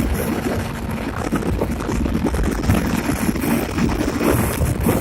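Yamaha snowmobile engine running at speed, with wind buffeting the microphone.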